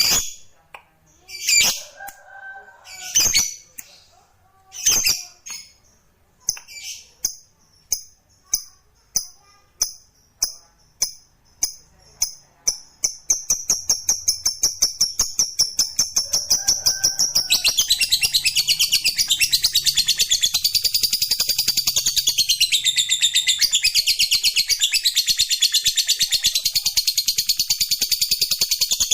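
Lovebird 'ngekek' song: single shrill chirps that come faster and faster, then run together into a long, rapid, unbroken chattering trill that carries on for the rest of the clip.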